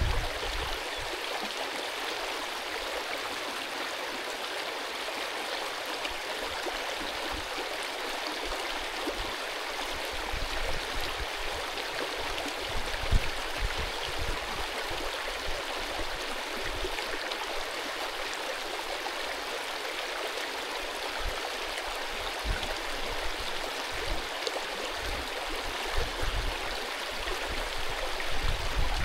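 Mountain brook running with a steady, even rush of water. Occasional low thumps come through underneath, more of them near the end.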